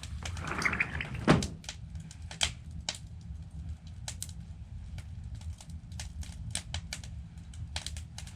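Wood fire in a fireplace crackling, with sharp, irregular pops over a low, steady rumble.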